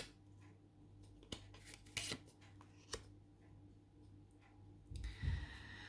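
Faint handling noise: a few soft, separate clicks, then a short rustle near the end, over a low steady hum.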